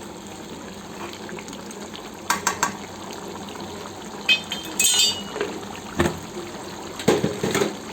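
Chicken gravy bubbling steadily in a pot while a metal ladle stirs it, knocking and clinking against the pot in a few short bursts.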